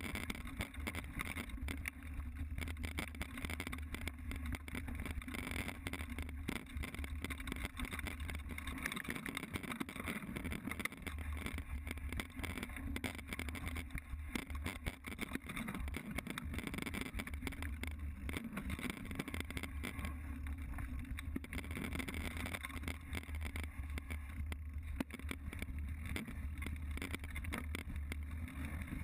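Mountain bike ridden over rough trail, recorded on a GoPro: wind buffeting the microphone with a constant rattle and clatter of the bike over the ground.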